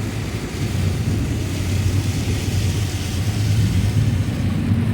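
Steady road noise inside a moving vehicle on a rain-soaked freeway: a low engine and tyre drone with an even hiss of tyres on the wet road.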